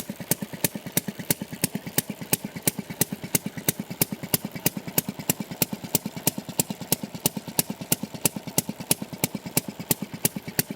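Sheffield railroad track-car engine, a water-cooled single-cylinder two-stroke, running at idle with a steady train of sharp exhaust pops, several a second, some louder than others.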